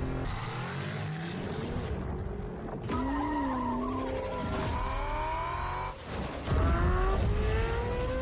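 Honda i-VTEC car under way, its engine and automatic transmission giving a whine that rises steadily in pitch as the car gathers speed, over a low rumble, with a few abrupt breaks.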